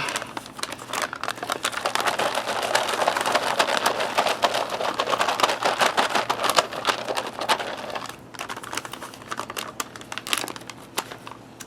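Plastic MRE beverage pouch crinkling as it is zipped shut and worked by hand, mixing instant mocha cappuccino powder with hot water. The crackling is dense for about eight seconds, then thins out.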